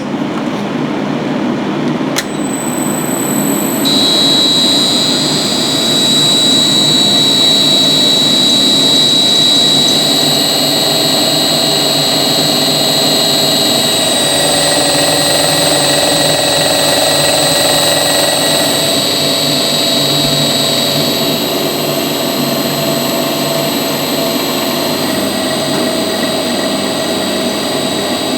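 A machine running steadily with a high whine. The whine sets in about four seconds in.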